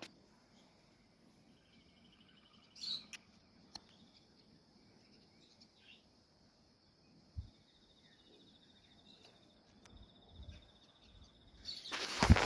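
Faint outdoor ambience: a steady high-pitched insect trill with a buzzier trill coming and going, a few small clicks, and a loud rush of noise near the end.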